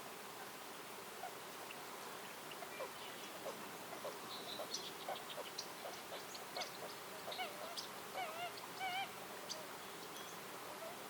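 Birds calling in a forest: a run of short chirps and a few warbling, wavering notes, busiest about midway and near the end, over a faint steady background hiss.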